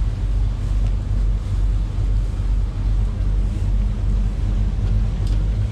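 Motorboat's engines running steadily with a low hum, with wind buffeting the microphone.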